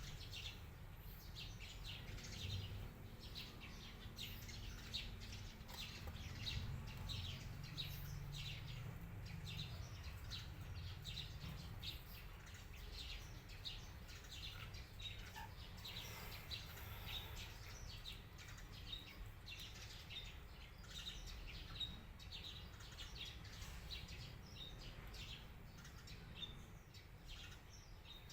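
Birds chirping: many quick, high chirps, several a second, over a faint low hum.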